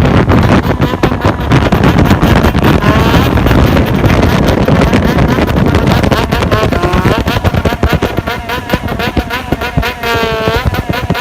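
Yamaha XJR400 inline-four through a Waltz Kikai exhaust with the silencer fitted, revved in a bosozoku-style 'call': the throttle is blipped and held so the revs rise and fall over and over, with clear sweeps up and down about three seconds in, near seven seconds and again near ten seconds. It eases somewhat in the last few seconds.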